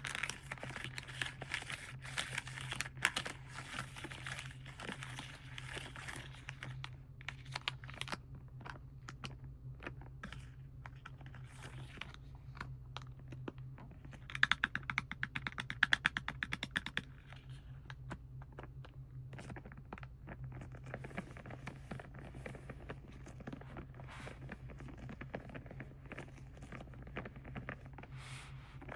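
Plastic and foil packaging being crinkled and handled, with a quick run of sharp clicks partway through. A low steady hum lies underneath.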